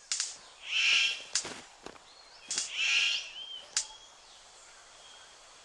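Bird calls: two harsh, buzzy calls about two seconds apart, with several sharp clicks around them, then faint forest background.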